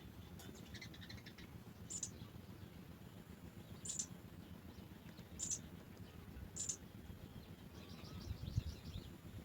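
House sparrows chirping: four short, very high chirps spaced one and a half to two seconds apart, a small cluster of lower chirps about a second in, and a quick run of chirps near the end, over a faint low background rumble.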